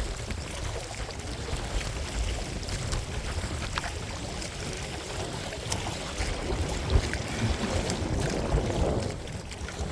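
Choppy waves sloshing and slapping against a small recreational kayak's hull as it rides the chop, with wind buffeting the microphone into a low rumble. A sharper slap comes about seven seconds in.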